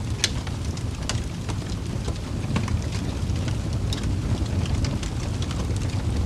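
Wood fire burning in a fireplace: a steady low rumble with scattered sharp crackles and pops, the loudest pop right at the start.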